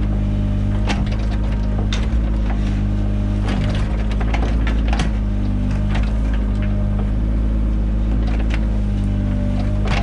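Mini excavator working: its engine runs at a steady pitch throughout, with frequent irregular clicks and knocks from the digging gear.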